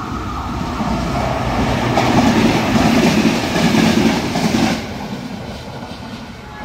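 ONCF ZM electric multiple unit running through a station at speed, its wheels rumbling and clattering on the rails, getting louder as the carriages pass close. About five seconds in it cuts off abruptly to a quieter, more distant train rumble.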